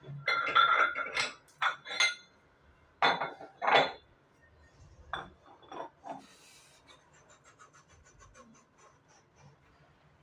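Metal dumbbells clinking and clanking against each other and the rack as they are handled: a run of sharp metallic knocks in the first four seconds, two more a couple of seconds later, then faint small ticks.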